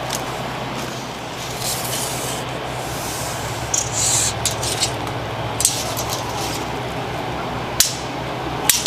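Scattered brief rustles, scrapes and clicks from moving among fallen dead branches while measuring them, over a steady low hum.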